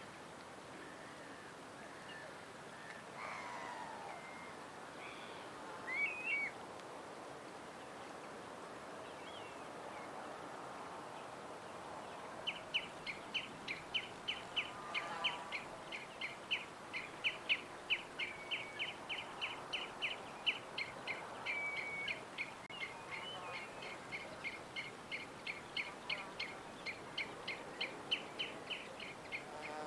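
Wild birds chirping: a few scattered calls early on, then from about twelve seconds in a long run of short, high chirps repeated about three times a second, over a faint outdoor background.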